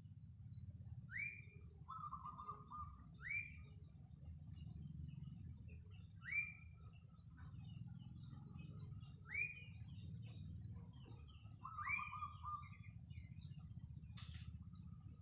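Several birds calling at once: one gives a short rising whistle every two to three seconds, sometimes followed by a brief trill, while others keep up a fast, steady high chipping. A low steady hum runs underneath, and there is a single sharp click near the end.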